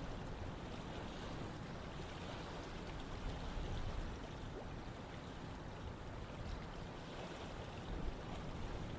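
Running water: a stream flowing steadily over rocks, a continuous rushing with fine splashing.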